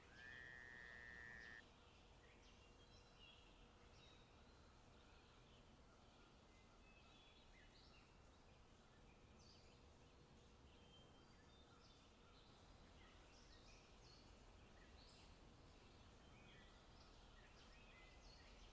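Faint forest ambience: small birds chirping and calling here and there over a quiet low rumble. Near the start a steady whistle-like tone, the loudest sound here, rises briefly and then holds for about a second and a half.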